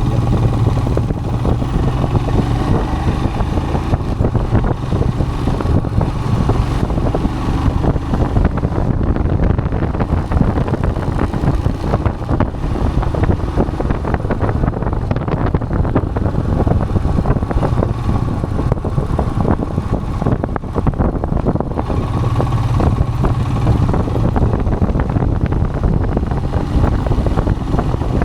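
Royal Enfield Himalayan's single-cylinder engine running steadily under way, with wind buffeting the microphone.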